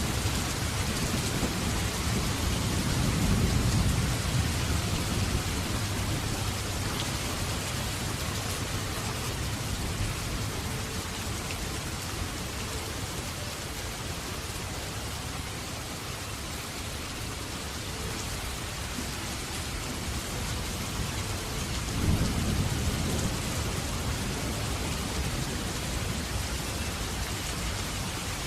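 Steady heavy rain, with thunder rumbling twice: a rolling swell a few seconds in and a sharper crack near the end that rumbles away.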